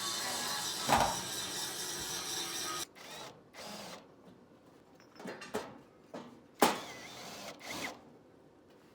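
A small motor-driven machine runs steadily and stops abruptly about three seconds in. A few sharp knocks follow, the loudest a little after halfway.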